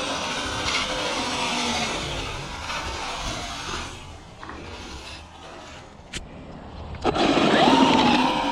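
Brushless electric motor and drivetrain of a Traxxas UDR RC truck whining as it is driven, the pitch rising and falling with the throttle. It dies down about four seconds in, a sharp click comes just after six seconds, and the whine comes back loud and rising about seven seconds in.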